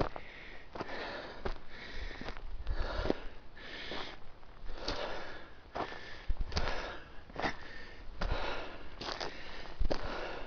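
A hiker breathing hard and fast while climbing a steep slope, a rasping breath about once a second, with sharp crunching footfalls on loose dirt between the breaths.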